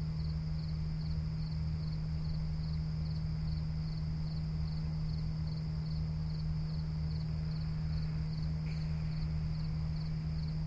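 A cricket chirping in a steady rhythm, about two short trilled chirps a second, over a steady low hum.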